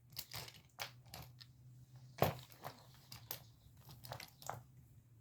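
Toy train cars clicking and knocking as they are handled after a derailment, a string of small sharp knocks with the loudest about two seconds in, over a faint steady low hum.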